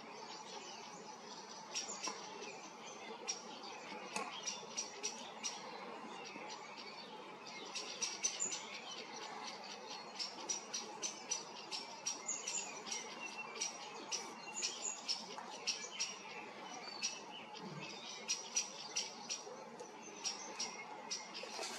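Small birds chirping and twittering outdoors: many short, high chirps in quick, irregular succession over faint background hiss.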